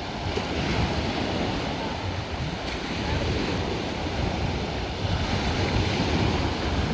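Sea waves washing onto the shore in a steady wash, with wind buffeting the microphone.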